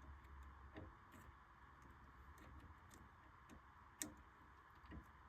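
Faint, scattered clicks and taps from multimeter probes and leads being set in place on a furnace gas valve's terminals, one sharper click about four seconds in, over a faint steady background hum.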